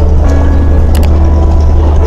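Steady low rumble of a ferry's engines, with music playing over it and a brief click about a second in.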